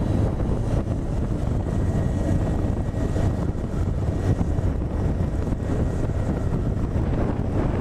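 Wind rushing over a motorcycle rider's microphone while riding, with the Honda CB1000R's inline-four engine running steadily underneath.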